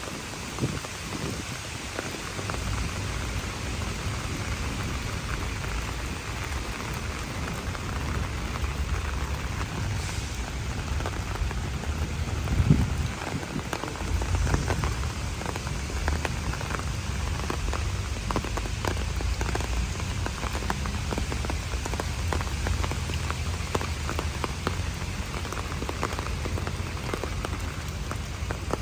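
Steady rain falling, with many small drops ticking on surfaces over a low, steady rumble. A single dull thump stands out about halfway through.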